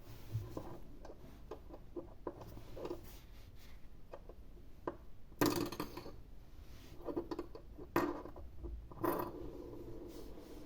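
Hands handling small plastic surprise-egg parts and wrapping: scattered light clicks and taps, with two louder rustling scrapes, one about halfway through and one near the end, and a sharp click between them.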